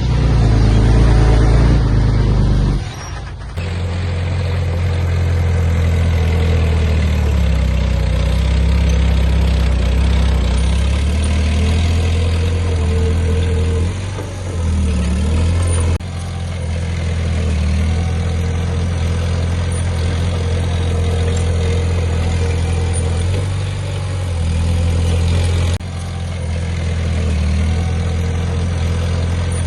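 Heavy diesel engines of earthmoving machines running steadily. The sound changes abruptly about 3, 16 and 26 seconds in.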